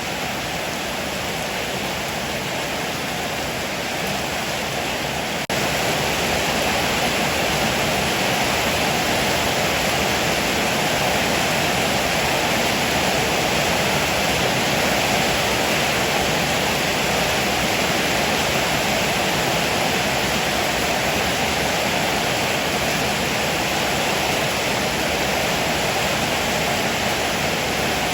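Heavy rain pouring down as a steady, even hiss, with no thunder. About five and a half seconds in it abruptly gets a little louder and fuller, then holds steady.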